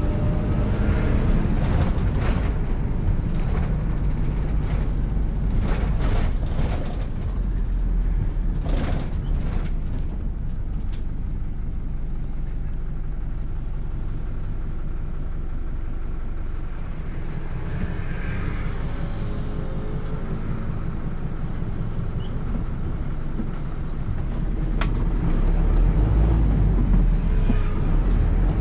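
City bus engine and drivetrain running while the bus drives, with a steady low rumble and scattered knocks and rattles from the body early on. The engine grows louder near the end as the bus pulls harder.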